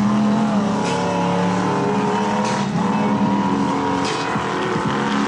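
Mega mud truck's engine running at high revs, a loud, steady engine drone held through a freestyle run.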